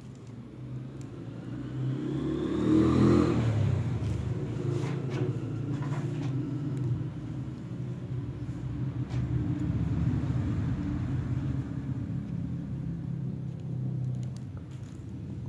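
A low motor rumble that builds, swells with a brief rising whine about two to three seconds in, then runs steadily, with a few light clicks.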